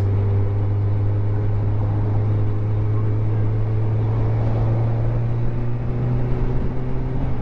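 Motorcycle engine running steadily under way, a constant low drone with an even hiss of wind and road noise; the engine note shifts shortly before the end.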